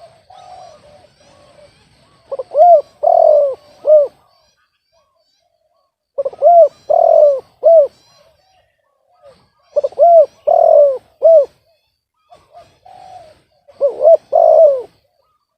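Spotted dove cooing: four phrases of three or four coos, one about every four seconds, some led in by a few quieter notes.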